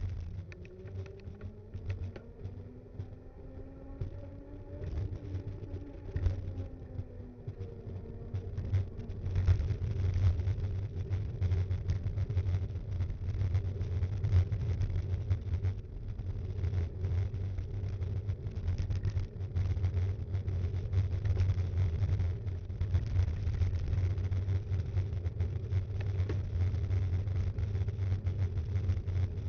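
Riding noise picked up by an action camera mounted on a Btwin Rockrider 5.1 mountain bike: a steady low drone with constant rattling and knocking, which gets louder and busier about nine seconds in. Early on, a vehicle's engine tone rises and then falls in pitch over several seconds.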